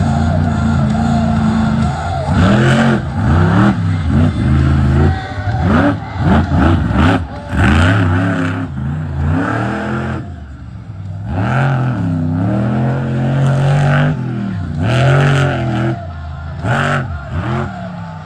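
Monster truck engine revving hard over and over, its pitch climbing and dropping every second or so, easing off briefly about two thirds of the way through.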